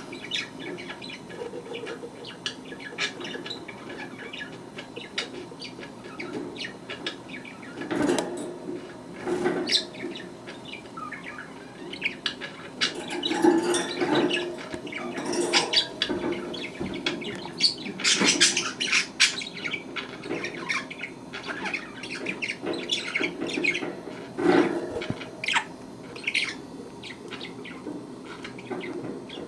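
Budgerigars chirping and peeping in many short, irregular calls, with louder flurries now and then.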